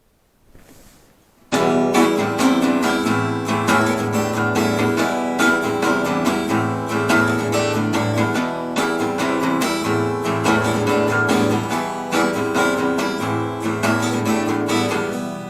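Acoustic guitar strummed in steady chords as a song's instrumental intro, starting about a second and a half in.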